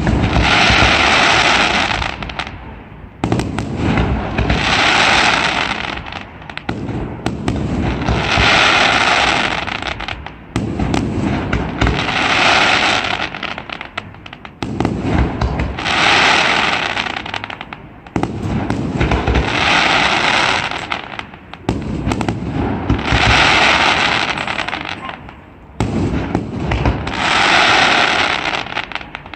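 Fireworks display going off in repeated waves: about every four seconds a dense crackling swells for a couple of seconds and fades, with low booms from the shells underneath throughout.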